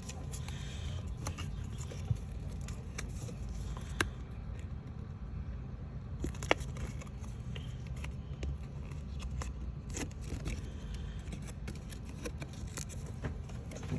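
Paper or card model pieces being handled and cut: scattered light clicks and scrapes, with two sharper snaps about four and six and a half seconds in, over a steady low hum.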